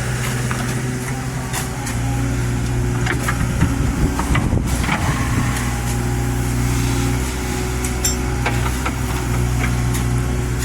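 Excavator diesel engine running steadily under load, its note unsettled for a moment about four seconds in, with scattered clicks and knocks from the machine at work.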